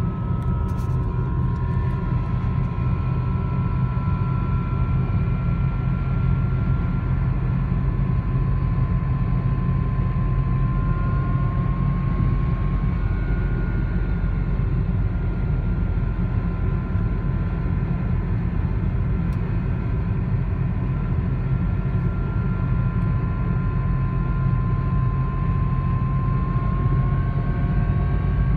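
BMW 335i driving with a steady low rumble and a plane-like whine that drifts slowly up and down in pitch. The owner notes the noise depends purely on road speed, the same on acceleration and deceleration, rather than on the engine.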